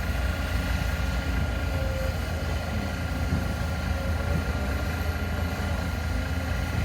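Heavy diesel machinery running steadily, a deep continuous rumble with a faint engine hum over it.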